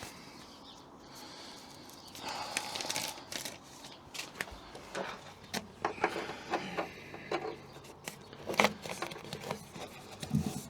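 Handling noise from sound-deadening insulation being laid and pressed into a car's floor: irregular rustles, crackles and soft knocks, one sharper knock a little after the middle.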